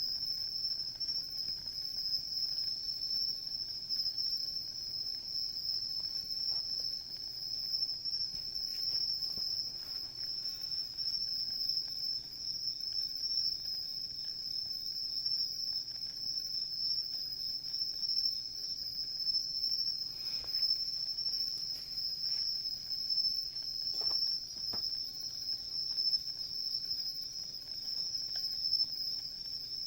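Crickets and other night insects chirring in a steady, unbroken high-pitched chorus. A few faint pops from a wood campfire come through, around twenty and twenty-four seconds in.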